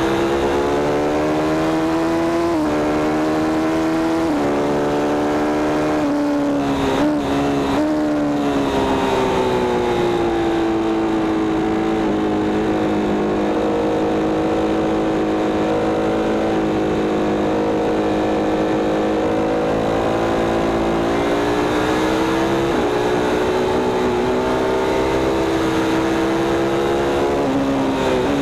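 Sport motorcycle engine at track speed, heard onboard. Its pitch drops in steps in the first few seconds as the rider slows and shifts down, holds steady through a long corner, then climbs as the bike accelerates hard near the end before a downshift at the very end.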